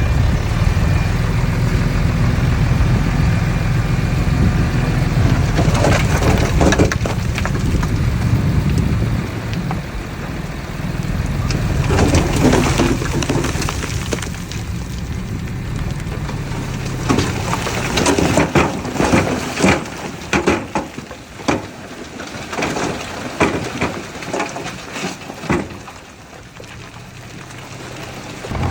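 Diesel engine of heavy earthmoving machinery running with a deep rumble, while soil and stones crunch and tumble. Through the second half come irregular loud knocks and clattering as the engine note fades down.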